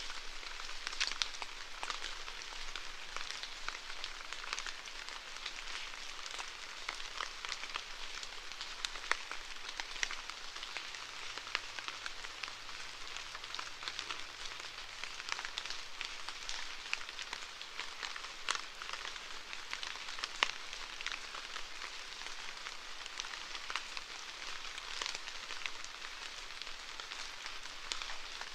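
Steady rainfall, a constant hiss broken by many individual drops hitting a surface.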